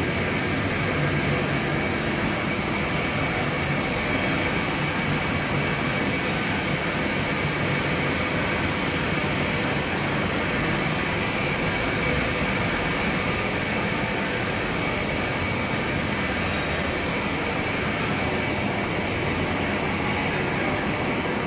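Vertical turning lathe running steadily: an even mechanical noise with a faint steady high whine.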